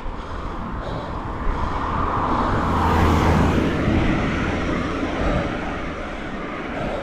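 Wind and road noise on an action camera's microphone while riding, swelling to a peak about three seconds in and then easing off.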